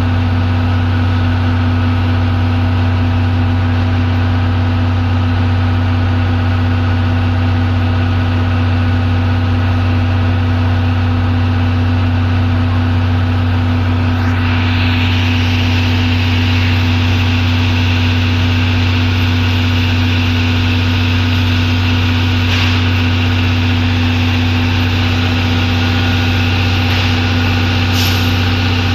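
A standing train: an engine idling with a steady low hum. About halfway in, a steady hiss of steam from the C11 steam locomotive starts and carries on.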